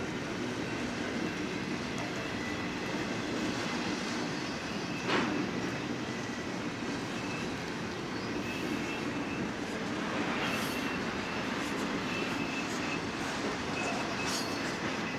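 BNSF double-stack intermodal freight train rolling past: a steady rumble of steel wheels on rail, with one sharp clank about five seconds in and faint high-pitched squeals in the second half.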